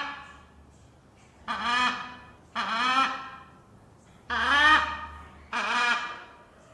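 An animal calling repeatedly: four loud calls about a second long each, with pitch that rises then falls, and short gaps between them.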